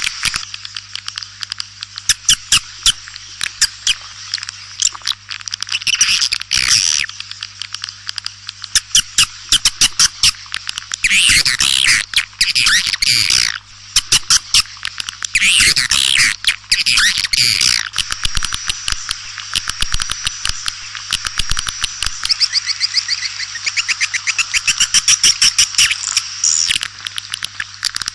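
Swiftlets calling: rapid trains of sharp clicks mixed with bursts of high twittering chirps, the loudest bursts around the middle, over a steady low hum. This is the kind of swiftlet call recording played as a lure to draw swiftlets into a nesting house.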